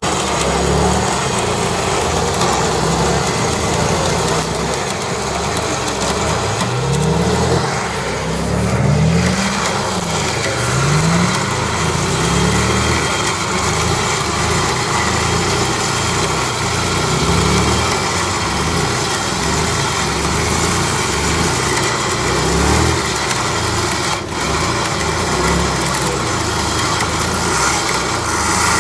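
UAZ-469 off-roader's engine running under load, its revs rising and falling again and again as it crawls through deep forest mud.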